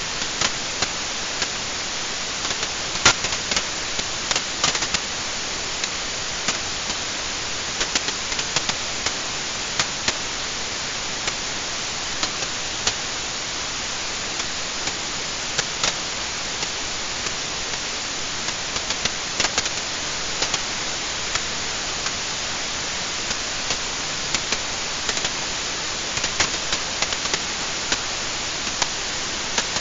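Wood fire burning in a fireplace: a steady hiss with irregular crackles and pops, the sharpest about three seconds in.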